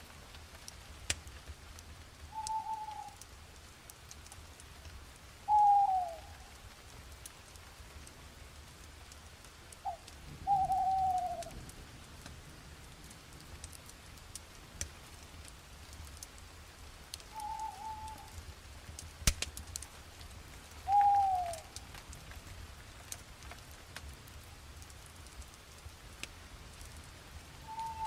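A bird repeats a short call that falls in pitch, about six times at intervals of a few seconds, over a steady hiss with a few sharp clicks.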